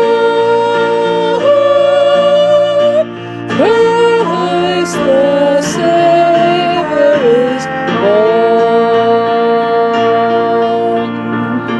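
A voice singing a slow melody in long held notes, some with vibrato, over steady instrumental accompaniment.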